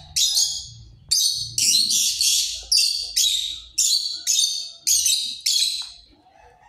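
A bird chirping over and over, sharp high chirps about two a second, stopping about a second before the end.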